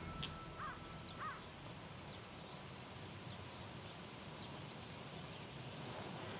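Quiet outdoor park ambience with a faint steady hiss: a bird gives two short calls close together near the start, with a few faint chirps after.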